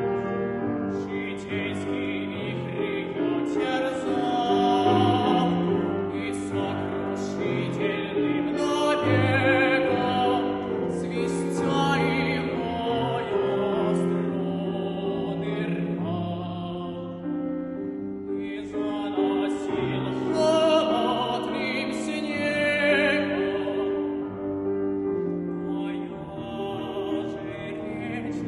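Classical art song: a boy's voice singing with vibrato over piano accompaniment.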